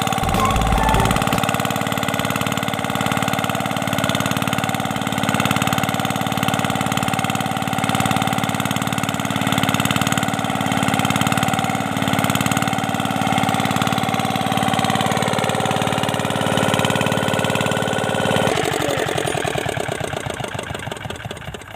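Diesel irrigation pump engine running steadily, then shut off about three-quarters of the way through, its beats slowing and fading as it runs down. The pump delivered no water on this first run.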